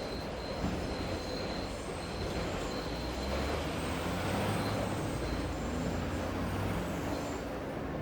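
A train passing over a steady hiss of rain. Its low rumble swells through the middle and eases off near the end, and a thin, high wheel squeal runs through the first half.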